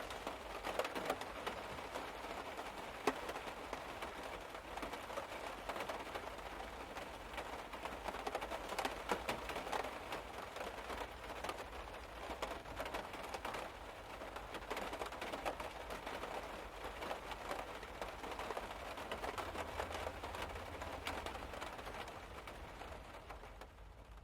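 Rain falling on a car's roof and windows, heard from inside the car: a dense, steady patter of drops that fades away near the end.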